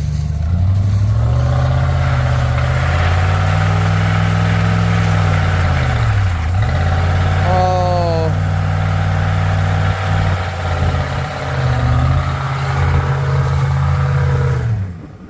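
Pickup truck engine revved hard and held high against the brakes for a burnout. The revs dip briefly about six seconds in and fall away just before the end, with a short falling tone about halfway through. The truck makes little power, which the owner puts down to busted exhaust manifolds.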